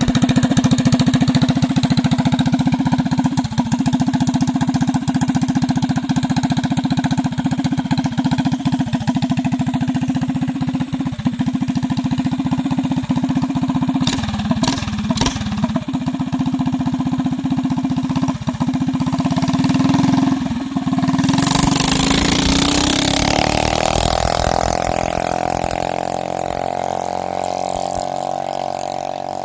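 Four-stroke mini bike engine running with a steady note and a few sharp clicks near the middle. About 21 seconds in the note changes and a rushing noise rises, then the sound slowly fades toward the end.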